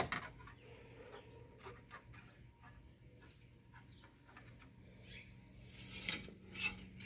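An engine oil dipstick and a rag being handled: faint rubbing and small clicks, then two louder scraping swishes near the end.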